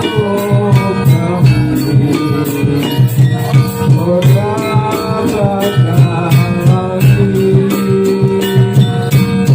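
Javanese Jathilan horse-dance music: drums keeping a steady, driving beat, jingling bells and rattles on quick regular strokes, and a gliding melodic line over the top.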